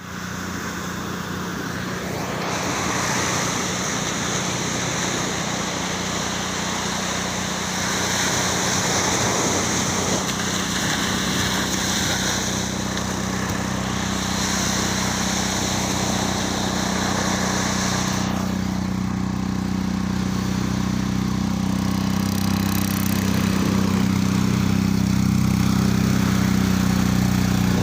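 A fishing boat's engine running steadily at a constant speed, its note growing a little louder in the last few seconds.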